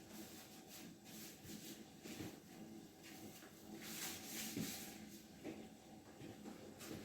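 Faint kitchen sounds: a low steady hum with soft, scattered rustles and light knocks, a little louder about four seconds in.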